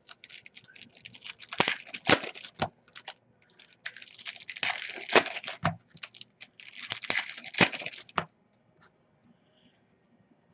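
Foil trading-card pack wrappers being torn open and crinkled by hand, in three spells of crackling, then quiet for about the last two seconds.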